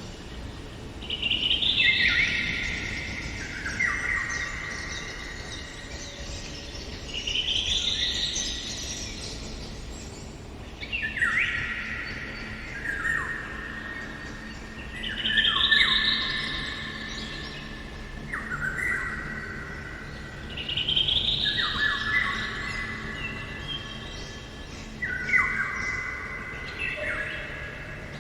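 Eurasian golden oriole singing, repeating a phrase every few seconds: a rising sweep followed by clear, fluty notes stepping down in pitch.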